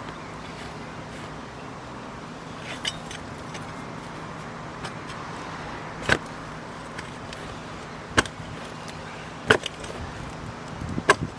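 A digging tool chopping into soil and roots while a large dock root ball is dug out: about five sharp strikes a second or two apart, over a steady low background hum.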